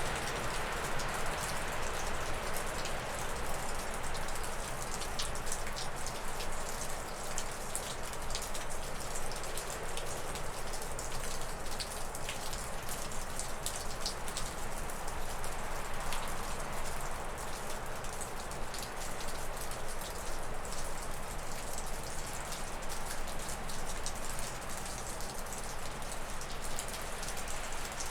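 Gusty wind blowing through spruce and birch trees, swelling near the start and again about halfway through. Water drips off a roof in quick, scattered ticks throughout, from snow melting above freezing.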